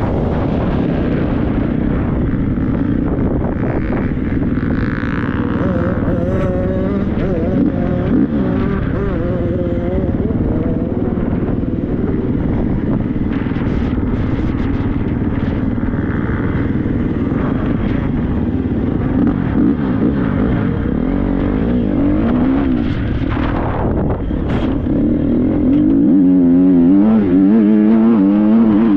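Triumph 250 motocross bike's engine revving up and down as it is ridden, with wind buffeting the helmet-mounted microphone. Near the end the engine holds a steadier, higher pitch and gets a little louder.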